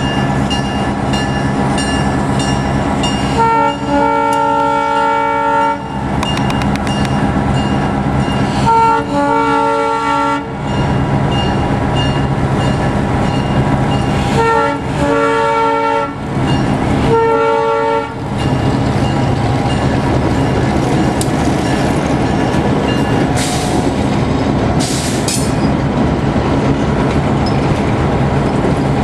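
Diesel freight locomotive's chime horn sounding a grade-crossing signal: two long blasts, shorter ones, then a final long blast, over the rumble of the engine. After the horn stops, the train keeps rolling with steady wheel noise and two brief high wheel squeals near the end.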